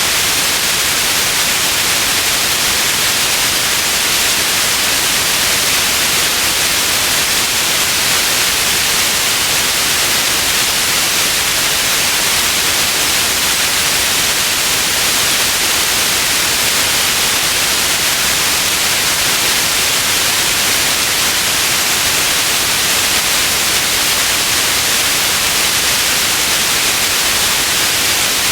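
Steady white noise: an even, unbroken hiss that stays at one level throughout.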